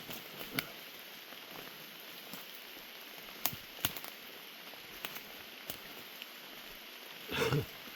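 Rain falling steadily, a constant hiss with scattered sharp drop ticks. Near the end a louder rustling thump stands out.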